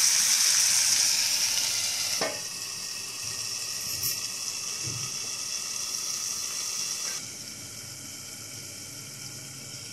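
Chicken pieces sizzling in hot oil in an iron kadhai, a steady hiss. About two seconds in it drops abruptly and goes on quieter and muffled under a steel plate lid.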